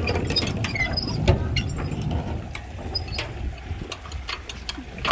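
A boat engine running steadily with repeated irregular metal clanks and knocks as steel pipe and fittings of a sand-pumping rig are handled; one knock about a second in stands out as the loudest.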